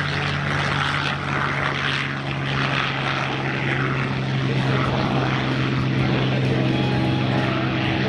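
P-51 Mustang's V-12 piston engine and propeller running at a steady pitch.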